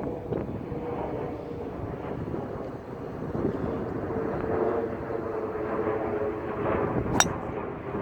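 Strong wind buffeting the microphone, with a steady whine running underneath and a single sharp click near the end.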